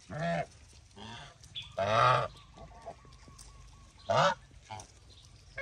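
Domestic geese honking: a series of about five short, loud honks at irregular intervals, the loudest about two seconds in.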